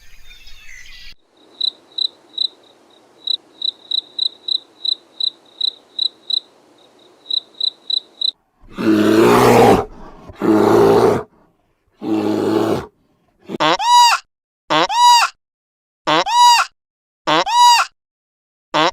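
A sequence of animal sounds. First, an insect chirps in even, high, rapid pulses for about seven seconds. Then come three loud harsh calls, each over a second long, followed by a steady run of short pitched calls that rise and fall, about one a second.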